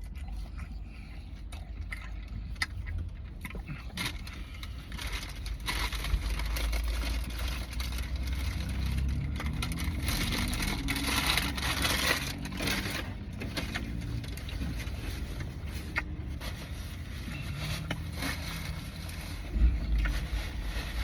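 A person chewing and biting into a chicken wrap, with the paper wrapper crinkling and scraping, over a steady low hum.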